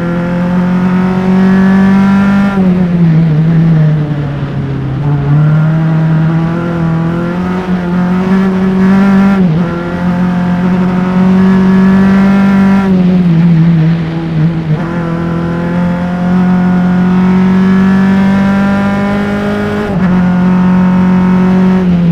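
A single-seater race car's engine at racing speed, picked up by mics on the engine. The revs climb steadily, then drop sharply about five times through the lap.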